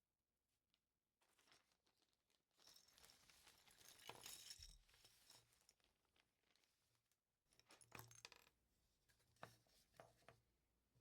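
Small plastic LEGO pieces clicking and clattering against each other and the table as they are sorted apart, with a denser patch of clatter and rustling about three to five seconds in.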